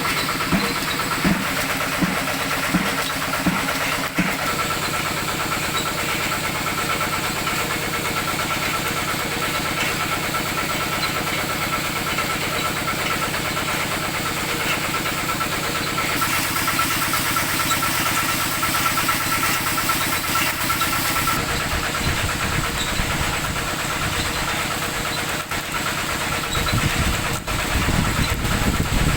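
Old Kubota tractor engine running steadily. It chugs in a slow, even pulse for the first few seconds, and a heavier low rumble comes in near the end.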